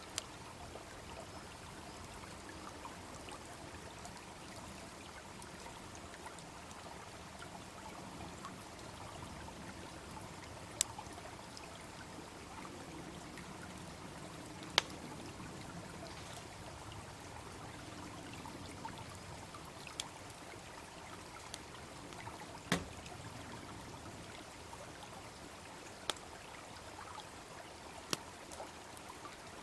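Wood bonfire crackling, with a sharp pop every few seconds, over the steady babble of a small brook.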